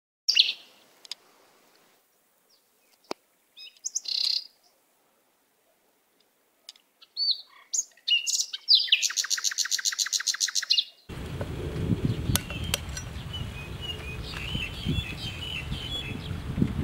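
Birds calling: scattered chirps and whistled calls, then a rapid trill of about nine notes a second that stops abruptly. After that, fainter bird chirps over a low steady rumble, with a few sharp knocks.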